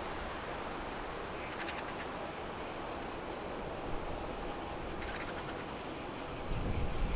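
Insects chirping steadily in a high, finely pulsing band. Near the end, the low rumble of an approaching jet begins to rise.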